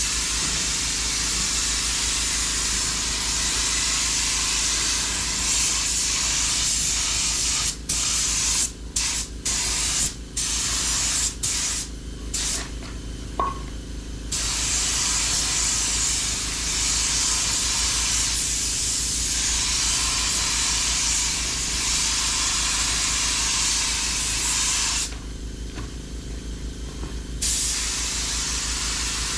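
Compressed-air paint spray gun spraying: a steady, loud hiss of air and paint. It cuts off briefly several times around the middle as the trigger is let go between passes, and stops for a couple of seconds near the end.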